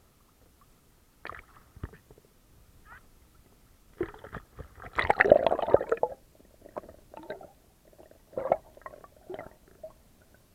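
Water gurgling and bubbling in irregular bursts with scattered knocks, as picked up by a camera during a freedive; the loudest, densest burst comes about five seconds in.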